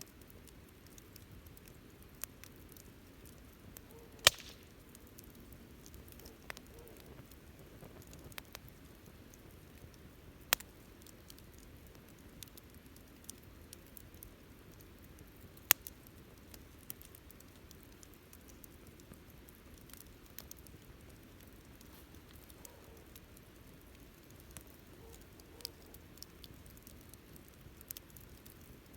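Wood campfire burning: a soft steady hiss with scattered sharp crackles and pops, three of them much louder than the rest.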